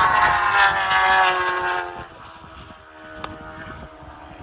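Superbike racing motorcycle at full throttle passing by, its engine note falling in pitch as it goes away. About two seconds in it fades to a faint distant engine whine, with a single sharp click a little later.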